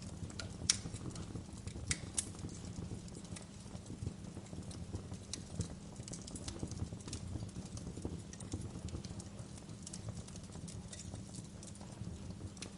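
Wood fire crackling in a fireplace: irregular sharp pops and snaps over a low steady rumble from the flames. The loudest pop comes under a second in, with two more close together about two seconds in.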